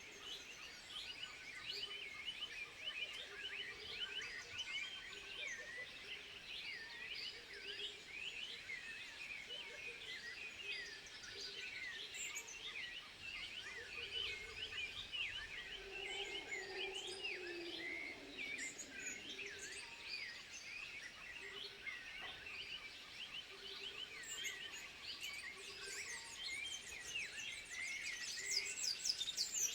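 Dense chorus of high, rapid chirping animal calls, with a low note repeating about once a second. A lower, drawn-out call falls in pitch about halfway through.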